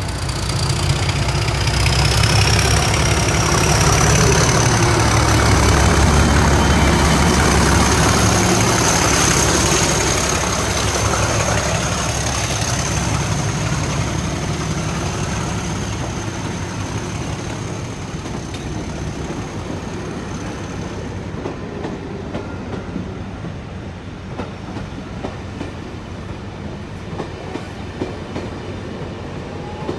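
A diesel-hauled train passing: a Class 37 locomotive's English Electric V12 diesel engine running under load as it tows a dead steam locomotive, with wheel and rail noise and a steady high-pitched whine. The sound swells over the first few seconds, is loudest around five to ten seconds in, then slowly fades as the train moves away.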